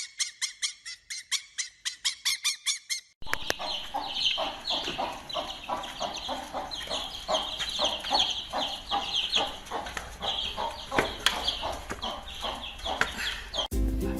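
A fast, even string of short high-pitched calls, about six a second, for the first three seconds; then, after an abrupt change, a crowd of domestic fowl clucking and cheeping together, which cuts off suddenly near the end.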